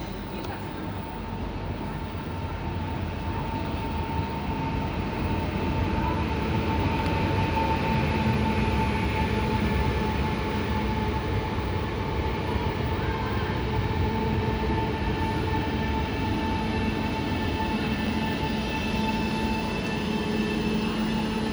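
Train running on rails, a steady rumble with a steady whine above it, growing louder over the first several seconds and then holding steady.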